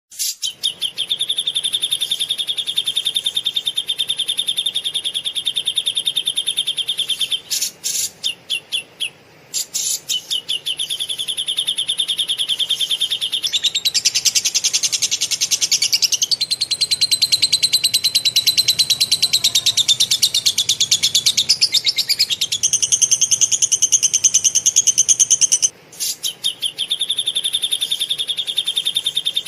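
Cage-bird training recording of cucak jenggot and lovebird song: long runs of very rapid, closely packed chirps held at one pitch, broken by short pauses, with a higher, more varied passage in the middle.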